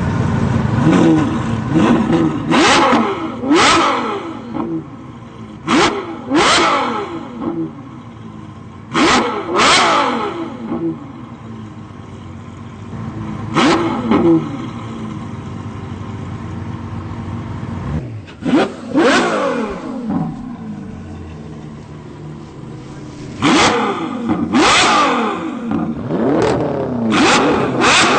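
Ferrari F12 Berlinetta's 6.3-litre V12 revved hard while standing, blipped again and again, often twice in quick succession. Each rev shoots up and falls back to a steady idle between blips.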